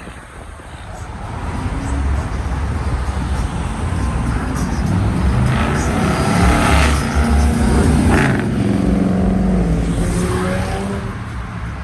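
A car engine accelerating past at close range. It builds over the first few seconds and is loudest around the middle, its pitch climbing and dropping several times as it revs and shifts, then it eases off near the end.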